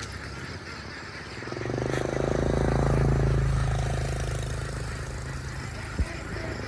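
A motor vehicle's engine passing close by: it grows louder about a second and a half in, is loudest around the middle, then fades away. A single sharp click near the end.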